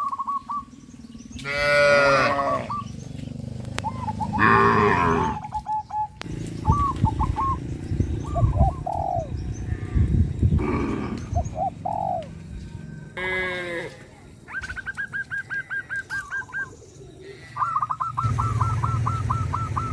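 Farm animals calling: several loud, wavering calls a few seconds apart, mixed with bird chirps. From about two-thirds of the way in, a rapid chattering call repeats at about eight a second.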